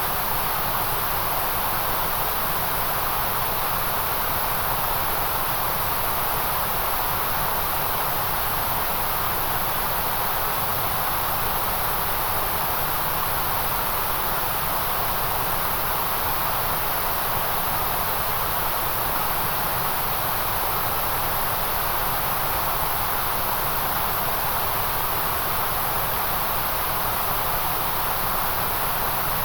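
Steady synthetic white noise: an even, unbroken hiss, brightest in the high treble, with no changes.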